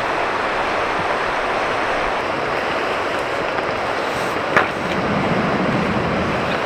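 Steady rushing noise, with one sharp knock about four and a half seconds in.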